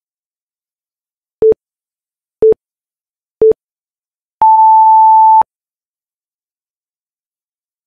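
Electronic interval timer counting down: three short, low beeps a second apart, then one longer, higher beep of about a second marking the end of the countdown.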